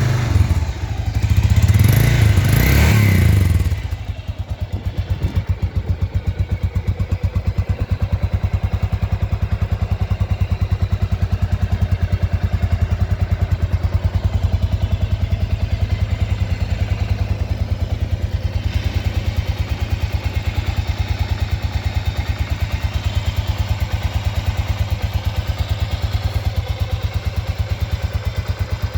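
Honda XBR500's single-cylinder engine, loud for about the first four seconds, then settling into a steady idle with an even, rapid thumping pulse from the exhaust.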